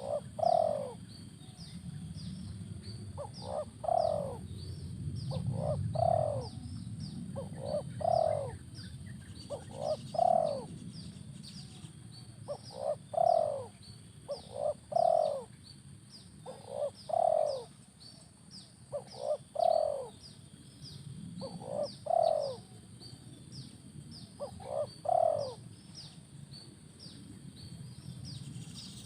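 Spotted dove cooing, a short phrase of two or three notes repeated about every two seconds. Behind it runs a rapid stream of thin high chirps and a steady high whine.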